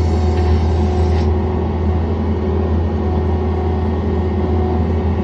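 John Deere 317 skid steer loader's engine running at a steady speed, a constant low drone with a steady hum above it.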